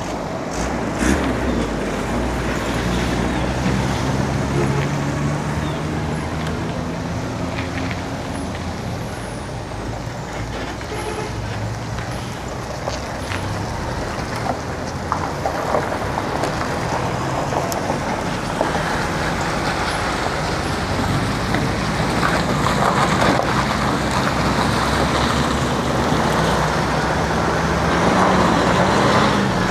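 Road traffic heard from a moving bicycle: the engines of trucks and other motor vehicles running close by, drifting up and down in pitch as they pass, over a steady rush of road noise that grows stronger in the second half.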